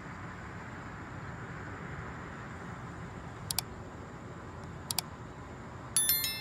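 Steady outdoor background noise, a low rumble and hiss like distant traffic or aircraft, with two quick pairs of short high clicks partway through and a brief burst of high chirps near the end.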